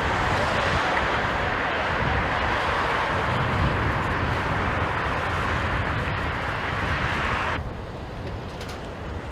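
Jet airliner engine noise mixed with strong wind on the microphone: a steady rushing sound that drops away abruptly about two seconds before the end, leaving a quieter low rumble.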